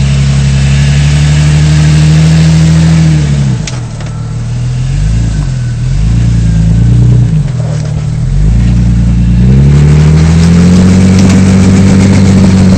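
Off-road 4x4's engine revving hard while rock crawling. It holds high revs, eases off about three seconds in and wavers up and down for a few seconds, then climbs and holds high revs again before dropping near the end.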